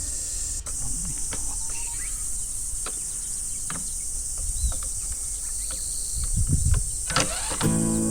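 Steady high-pitched trilling of insects, with scattered faint clicks. Music comes in near the end.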